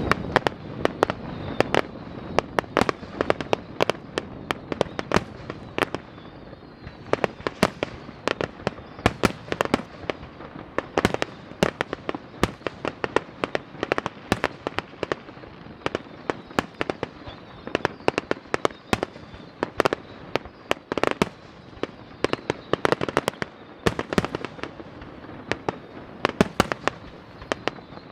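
Fireworks display: a dense, irregular run of sharp bangs from bursting aerial shells, several a second, over a steady crackling hiss.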